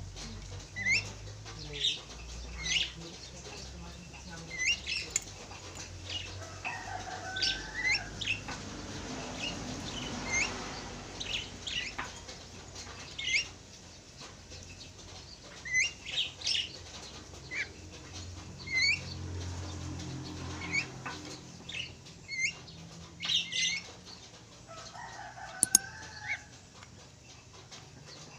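Javan mynas calling: short whistled notes that slide in pitch, repeated irregularly about every second or two, with two longer harsh chattering phrases.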